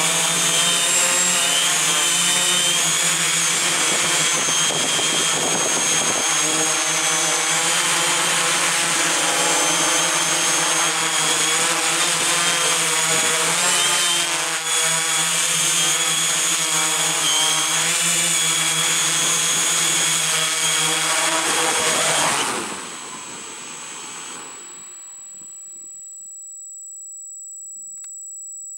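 Electric motors and propellers of a camera drone running steadily with a high whine that wavers slightly, then stopping suddenly about three-quarters of the way through; after that only a faint steady high-pitched tone remains.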